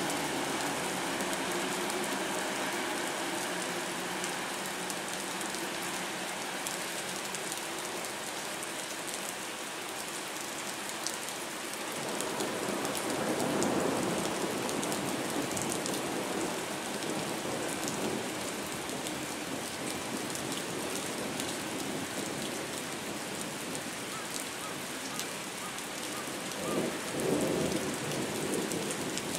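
Steady rain falling on the quay, with rolling thunder rumbling about twelve seconds in and briefly again near the end. The hum of a vehicle engine fades out over the first several seconds.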